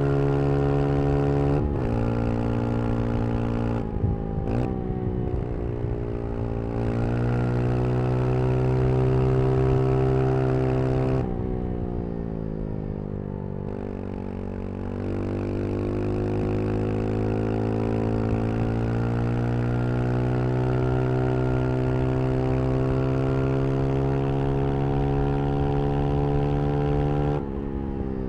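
Brixton Crossfire 125 XS's single-cylinder 125 cc engine under way, pulling through the revs, with brief breaks for gear changes about one and a half and four seconds in. The engine note drops around eleven seconds, dips and climbs again, and drops once more near the end.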